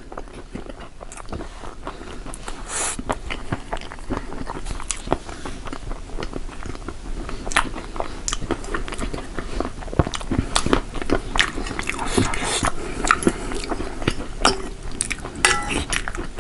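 Close-up mouth sounds of people eating: steady biting and chewing with many small crunchy, wet clicks.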